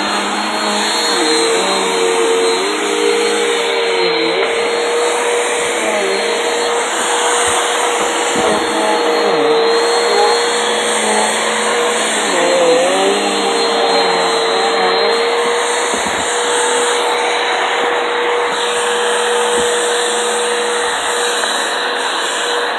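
Vacuum cleaner running steadily, a loud motor whine whose pitch wavers and dips briefly several times.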